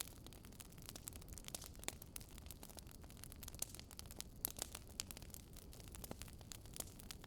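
Wood fire crackling faintly: irregular sharp pops and snaps, some louder than others, over a low steady rumble.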